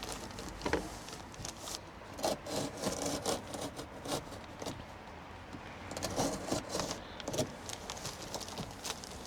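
A knife scraping and cutting at timber, with irregular small knocks, rubs and clicks of hand work.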